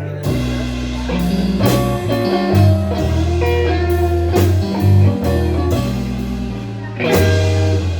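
Live blues band playing an instrumental passage, with guitar over bass notes and drum hits. Someone present judges the guitar out of tune, pitched between B and B flat.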